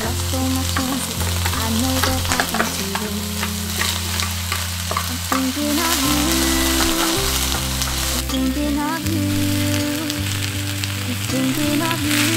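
Sliced onion, green onion and other vegetables sizzling in oil in a cast-iron skillet, with a steady frying hiss throughout. Wooden chopsticks stirring them tick and scrape against the pan now and then.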